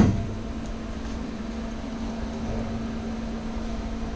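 A sharp knock, then a steady machine hum holding one constant tone.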